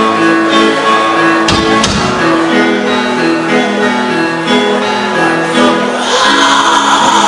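Black metal band playing live: a slow melody of held, stepping notes, with a heavy low hit about a second and a half in. The sound grows brighter and fuller about six seconds in.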